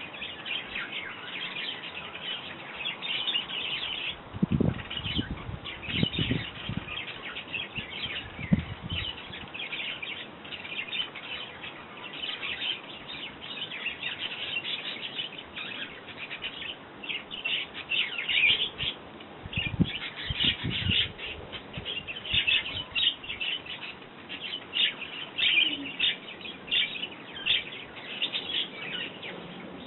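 A group of sparrows chirping busily and continuously, with a few low soft thumps a few seconds in and again about two-thirds of the way through.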